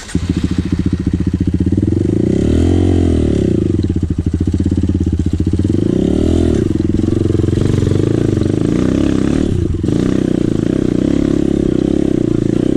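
Dirt bike engine running close by, revved up and back down twice in the first seven seconds, then held at a steady speed.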